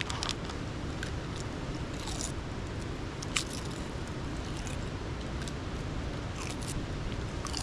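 Wood campfire burning: a low steady rush with scattered sharp crackles and pops, one louder pop about three and a half seconds in.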